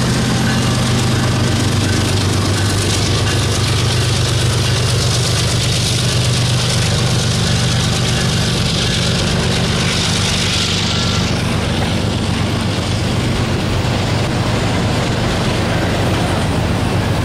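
A single Union Pacific diesel-electric freight locomotive running past at close range, its engine making a steady drone. The drone eases in the second half as the autorack cars roll by behind it.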